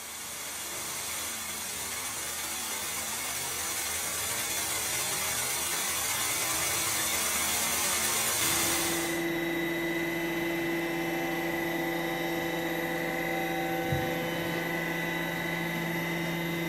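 Pipe-relining equipment running. First comes a steady rush of air for about eight seconds; then it settles into a steady machine hum with a clear pitch.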